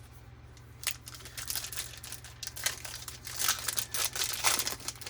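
Foil wrapper of a baseball card pack crinkling and tearing as it is handled and opened, starting about a second in as irregular crackles.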